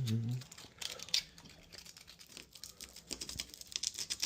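A steady motor-like hum cuts off about half a second in. Then come light, irregular scraping, clicking and crackling from hand work on a painted wooden door edge: wood and flaking paint being trimmed around a lock cut-out.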